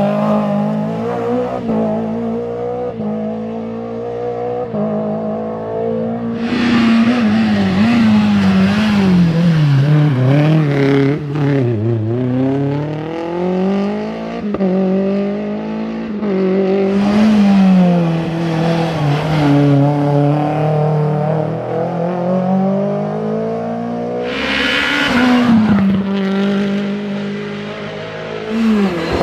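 Renault Clio Williams' 2.0-litre 16-valve four-cylinder engine under hard rally driving: revs climbing and dropping back through repeated gear changes, with a deep lift-off about twelve seconds in before it pulls up again. Three bursts of hiss from the tyres or road come and go over the engine.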